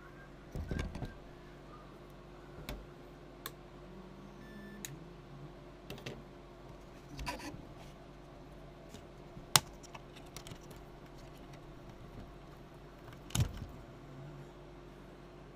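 Scattered light clicks and knocks, one sharp click about two-thirds of the way in, over a faint steady hum.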